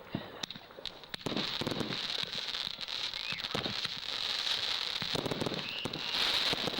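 Fireworks crackling and fizzing, a dense hiss studded with rapid sharp pops, growing loud about a second in and loudest near the end.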